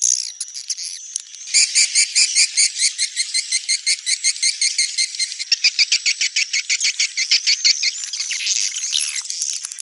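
Swiftlets twittering: a dense run of rapid, evenly repeated high chirps, about five or six a second, thinning out near the end. This is the 'neutral' swiftlet call used as a lure sound.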